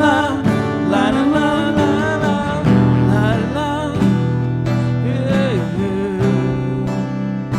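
Acoustic guitar strumming chords to a worship song, with a voice singing a wordless melody over it near the start.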